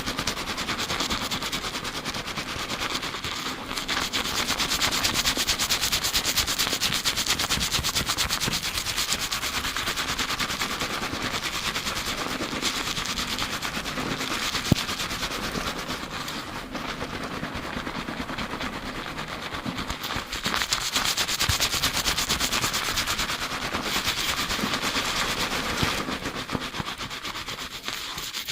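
Fingers rapidly scrubbing a lathered scalp during a high-speed shampoo, a fast continuous crackling rub of foam and wet hair heard close up in binaural. It eases off a little about halfway through, then picks up again.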